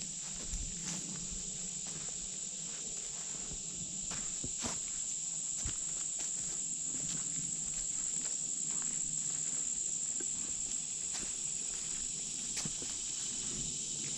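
Steady high-pitched insect chorus droning without a break, with faint scattered footsteps.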